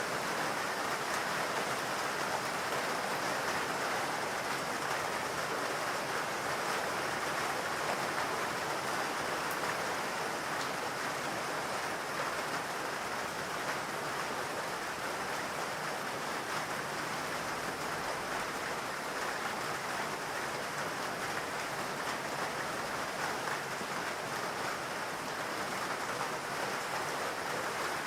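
Steady rain falling in a forest, an even rushing patter.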